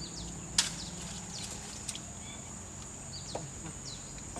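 Tropical forest ambience: a steady high-pitched insect drone with short chirping calls over it, and one sharp wooden knock about half a second in.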